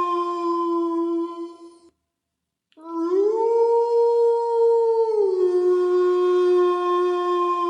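Canine howling. A long, steady howl fades out about two seconds in. After a short silence, a second howl starts low, rises in pitch, holds, then drops back to a long, even note.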